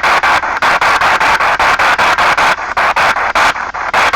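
P-SB7 spirit box sweeping through radio stations: a rush of radio static chopped into about five short pulses a second. A few times in the second half the upper hiss briefly drops out.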